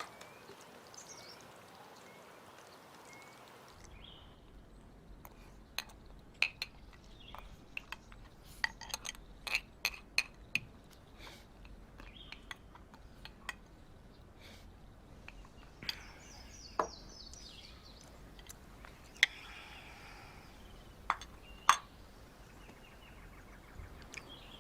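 Tableware clinking at a meal: scattered sharp clinks and taps of bowls, plates and chopsticks, a few of them loud, over a faint steady hum.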